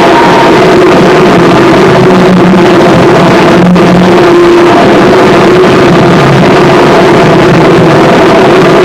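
Harsh noise music: a dense, unbroken, heavily distorted wall of noise played at full loudness, with a few droning tones held underneath that shift slightly. There is a brief dip in the texture a little under four seconds in.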